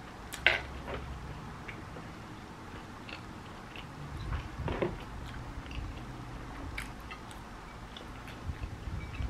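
Close-up chewing of a toasted French bread sandwich with crisp vegetables, in soft wet mouthfuls with small crunches. A sharp click comes about half a second in, and a few louder crackly strokes fall near the middle as a hot sauce bottle is handled and shaken.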